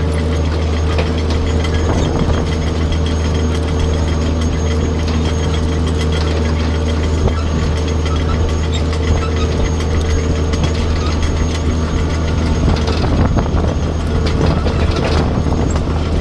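Tractor engine running steadily with the mechanical clatter of a Dewulf R3000S trailed potato harvester at work, at an even, unbroken level.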